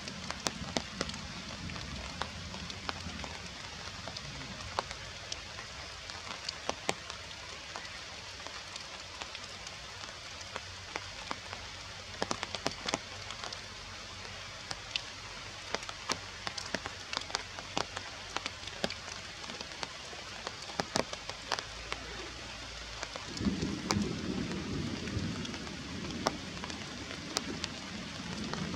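Steady rain falling on forest foliage, with many separate sharp drop hits scattered through it. Near the end a low rumble swells for a couple of seconds.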